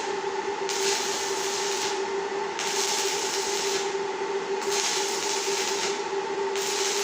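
Steady machine noise: a constant hum over a hiss that swells and drops about every two seconds.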